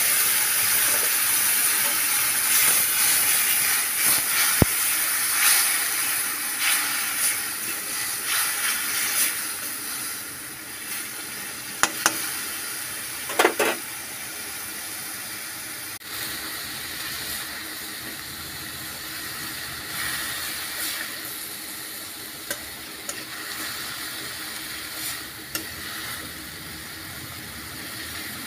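Grated onion, grated tomato and green chillies sizzling in hot oil in an aluminium kadai. The sizzle is loudest just after they go in and settles to a softer steady sizzle after about ten seconds. A few sharp clinks of metal on the pan sound through it.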